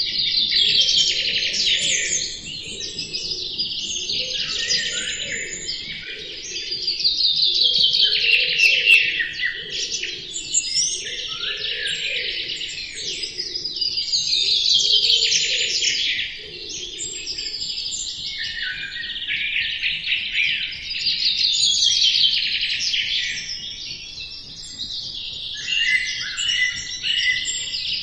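Songbirds singing in a dense chirping phrase that falls in pitch, repeated every six or seven seconds.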